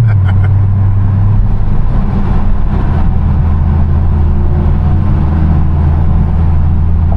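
Chevrolet Camaro 2SS V8 engine and exhaust cruising, heard as a loud, steady low drone from inside the car. The pitch steps down right at the start, as with an upshift or easing off the throttle, then holds steady.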